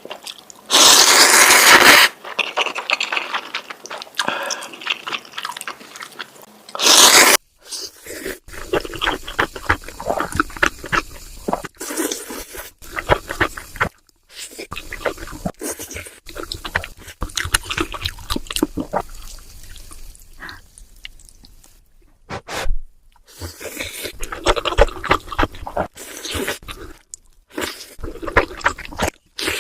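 Close-miked eating of noodles: slurping and chewing with many small wet clicks and crackles, and two loud rushing bursts, about a second in and around seven seconds.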